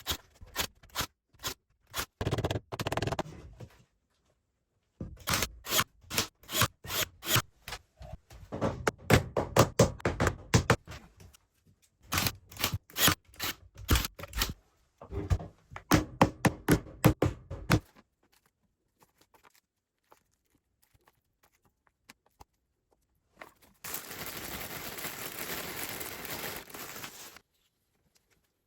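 Runs of sharp knocks and taps, some in quick bursts, with a gap before a few seconds of steady rushing noise near the end.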